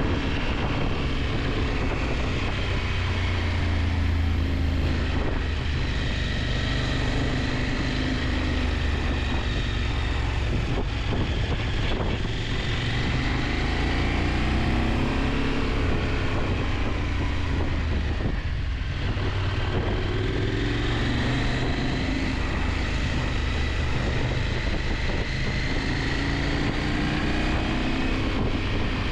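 KTM 890 Adventure's parallel-twin engine running under way, its pitch rising and falling several times as the revs change, over steady rushing noise.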